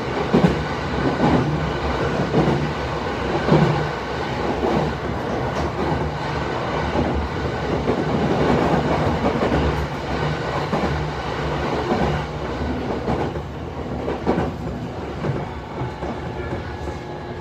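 Tokyo Metro 13000 series electric train running, heard from inside the car: wheels clicking over rail joints, with thin steady tones from its Mitsubishi IGBT inverter and permanent-magnet synchronous motors.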